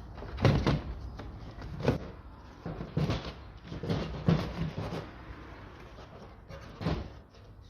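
Handling knocks and clatter as a small tube is worked off a car's plastic air filter housing: about eight or nine sharp, separate knocks at irregular intervals.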